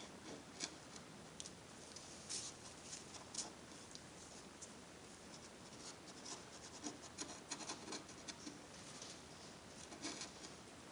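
Faint, irregular scratching and light clicks of hand work on plastic, such as an applicator brushing ABS cement along the crack in a motorcycle fairing.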